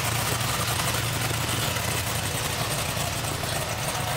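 Supercharged 6.2-litre LSA V8 in a box Chevrolet Caprice Brougham running steadily at low revs as the car rolls slowly past.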